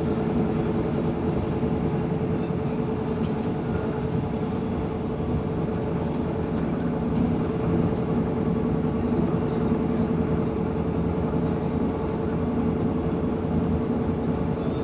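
Steady running noise inside a Class 158 diesel multiple unit at speed: the underfloor diesel engine and transmission drone along with wheel-on-rail rumble, a steady whine held through it. A few faint clicks come between about three and seven seconds in.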